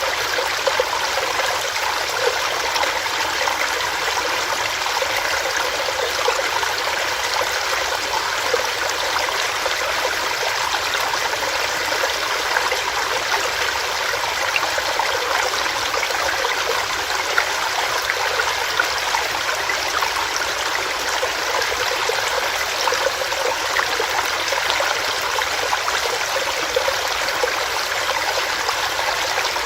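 Small stream running over rocks, a steady rush of water with fine splashing and bubbling throughout.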